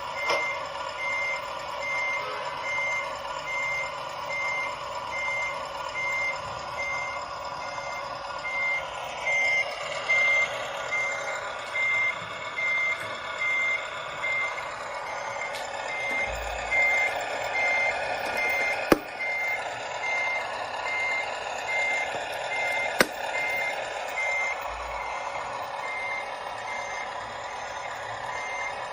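Reversing alarm of a Scania RC model truck beeping steadily at about two beeps a second, over a steady running hum. Two sharp clicks in the second half.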